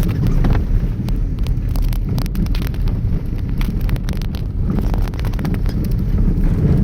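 Car driving on a snowy road, a steady low rumble of road and engine noise with wind on the microphone. A run of short, irregular clicks sounds from about half a second in until past the middle.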